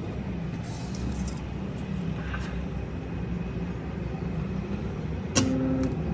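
Rewound three-phase induction motor running on test with a steady low hum, and a sharp click about five seconds in.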